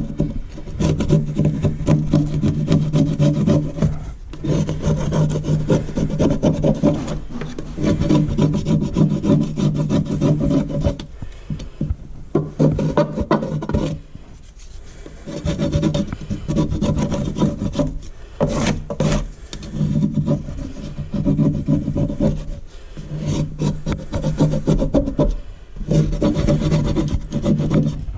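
Hand rubbing and scraping strokes, cleaning up a part of a sink drain during a garbage disposal install. The strokes come in spells of a few seconds with short pauses between them.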